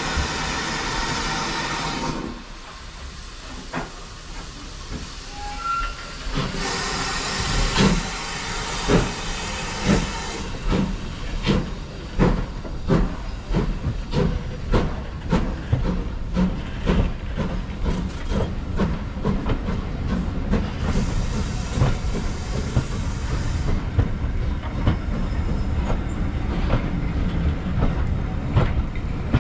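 Steam locomotive 5526 pulling out of a station: bursts of steam hissing, and from about eight seconds in a steady beat of exhaust chuffs and wheel knocks that gets gradually faster as the train gathers speed.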